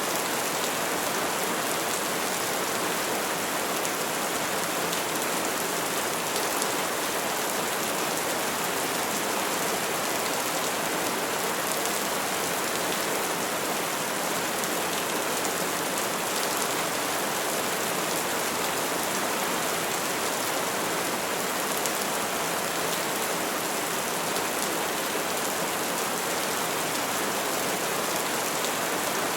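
Steady rainfall pattering on trees and leaves, an even, unbroken hiss of many drops with no thunder.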